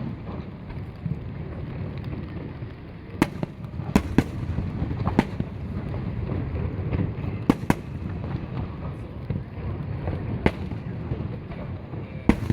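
Aerial fireworks shells bursting: about seven sharp bangs at irregular intervals, two of them close together near the middle, over a continuous low rumble.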